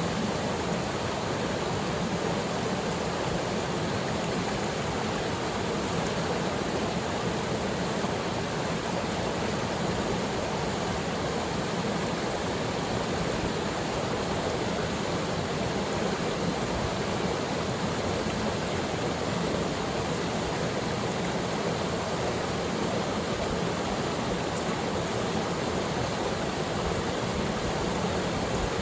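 Steady rush of a small waterfall pouring into its pool, an even wash of water noise that holds unchanged.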